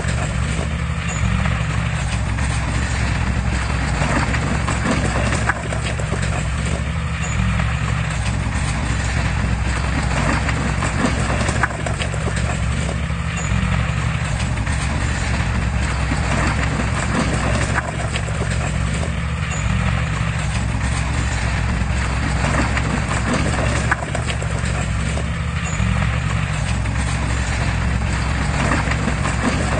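Heavy construction machinery's diesel engine running steadily under load, with a continuous clatter of metal parts over it.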